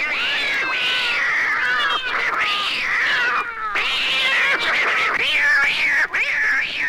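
A cat caterwauling: a continuous run of yowls and screeches, one after another, each gliding up and down in pitch.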